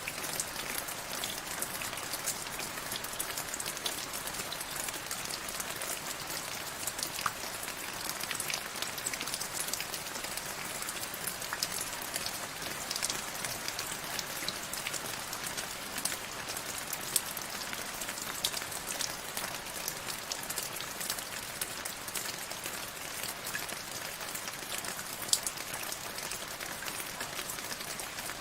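Steady rain falling, with many separate drops ticking on a hard surface over a dense hiss.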